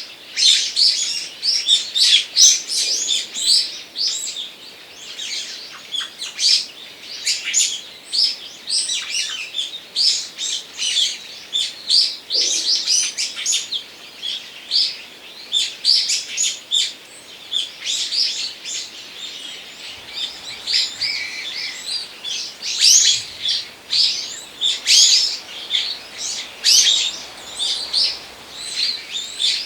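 Many small birds chirping and calling at once, a dense run of short, high, overlapping notes with no break.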